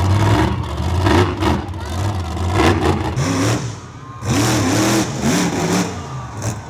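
Monster truck engine revving hard, its pitch rising and falling in repeated blips, with a short let-off about four seconds in.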